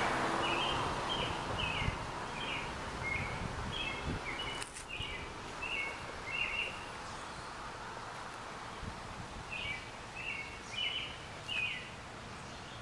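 A songbird singing phrases of short, repeated chirps, in two bouts with a pause in between, over a steady outdoor background hiss.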